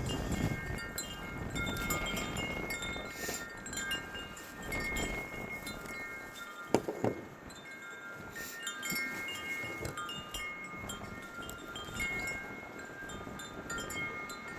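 Wind chimes ringing on and off in gusty wind, with many overlapping tones fading one into the next. There is a single sharp knock about halfway through.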